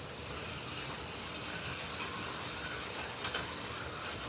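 Slot cars with small sidewinder electric motors running round a track: a steady whirring of motors and gears with a faint whine that rises and falls as the cars speed up and slow, and a sharp click about three seconds in.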